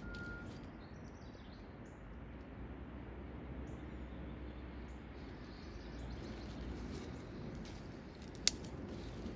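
Birds chirping faintly and sporadically over a steady low outdoor rumble, with one sharp click about eight and a half seconds in.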